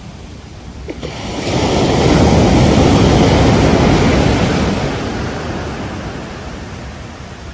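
An ocean wave breaking on the beach: the surf swells about a second in, is at its loudest for a couple of seconds, then fades as the wash recedes.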